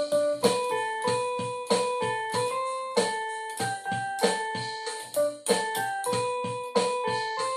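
Piano playing the slow introduction to a ballad, notes and chords struck about twice a second and left to ring, starting abruptly out of silence.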